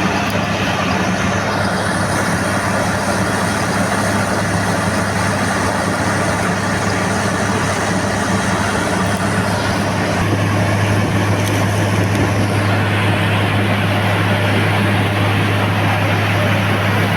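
Combine harvester running steadily, a loud engine and machinery drone with a deep hum that gets stronger about ten seconds in.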